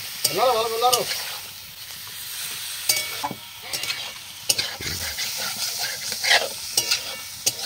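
Chicken pieces sizzling in a hot pan with spices while a spatula stirs and scrapes them, with scattered sharp clinks of the spatula against the pan. A short wavering pitched sound comes near the start.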